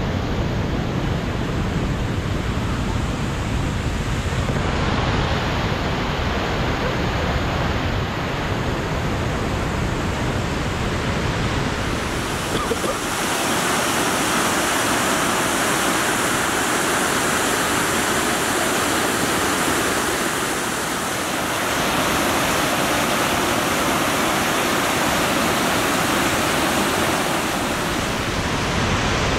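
Rushing river water churning through a narrow limestone gorge, a steady hiss and rush with no let-up. Its tone shifts a few times: deeper at first, turning brighter and hissier about twelve seconds in.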